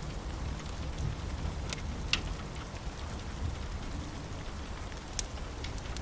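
Steady rain with a low rumbling underneath, broken by a few sharp pops or ticks scattered through it.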